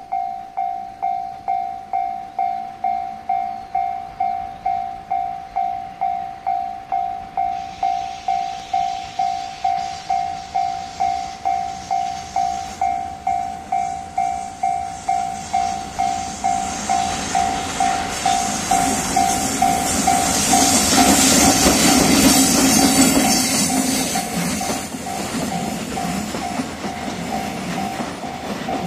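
Level-crossing warning bell ringing steadily at about two strikes a second while an EF65 electric locomotive approaches. The locomotive hauls a train of flat rail-carrying wagons that pass close by with wheels clattering over the rail joints. The train noise swells about two-thirds of the way through and the bell keeps ringing over it.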